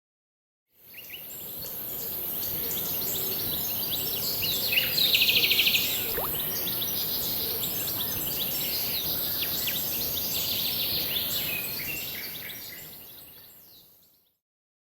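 Forest birds chirping and singing, many short calls overlapping, with one rapid trill about five seconds in as the loudest call, over a steady high hiss. The sound fades in about a second in and fades out near the end.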